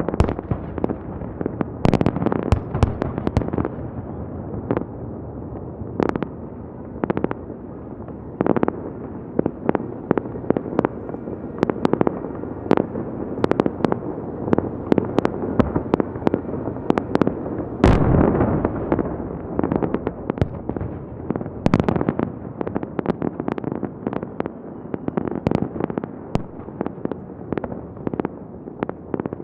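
Fireworks salute: a rapid, irregular string of sharp bangs and cracks over a continuous rumble of bursting shells, with a heavier volley about eighteen seconds in.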